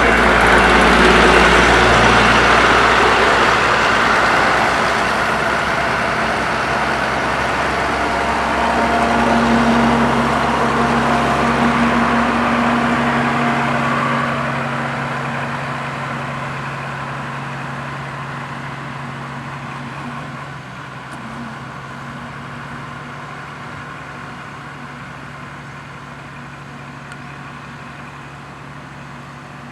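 A road roller's diesel engine running close by with a deep rumble and a steady hum. It is loud for the first dozen or so seconds, then fades steadily as the machine draws away.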